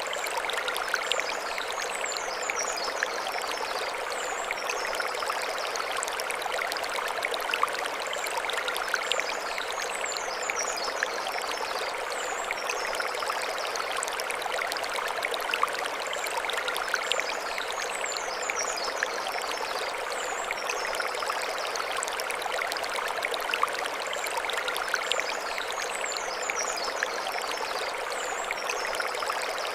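Mountain stream running steadily over stones. Above it, a bird's short high chirps come in clusters roughly every eight seconds.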